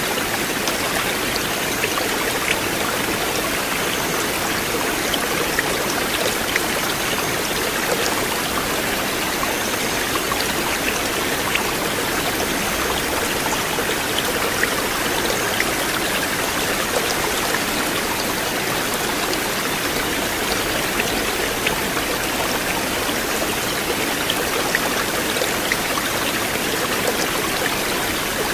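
River water flowing and rushing steadily, with small splashes and drips scattered through it.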